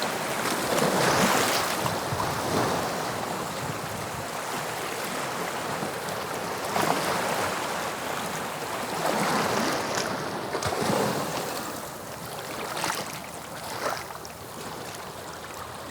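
English Channel sea waves breaking and washing up the shore: a steady rush of surf that swells and eases every few seconds, loudest about a second in.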